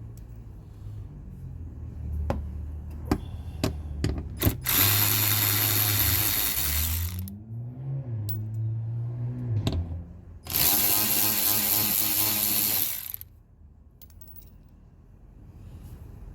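Handheld power tool running in two bursts of about two and a half seconds each, preceded by a few sharp clicks.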